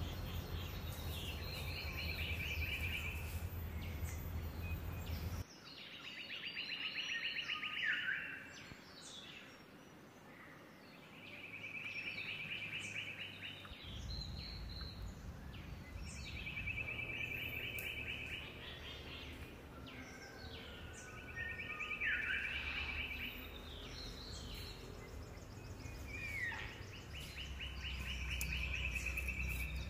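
Forest birdsong: one bird repeats a short buzzy trill about every five seconds, with other birds calling briefly in between, over a low rumbling background.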